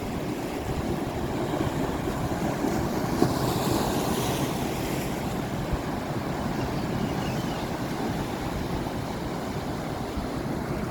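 Sea waves washing onto the shore, with wind rumbling on the microphone; a wave breaks and hisses up the beach about four seconds in.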